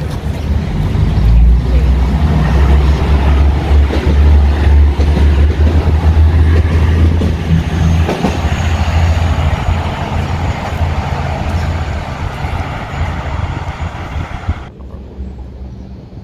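V/Line diesel railcar passing close by: a heavy low diesel rumble with wheel and rail noise over it. It builds quickly, is loudest in the first half and fades as the train moves away.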